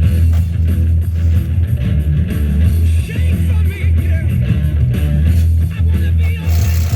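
A rock song with electric guitar playing from a radio tuned to a classic rock station, over a strong steady low hum.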